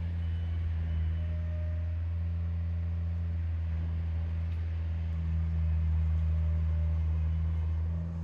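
Steady low hum of a vehicle engine running, unchanging in pitch, with a faint high beeping that stops about a second in.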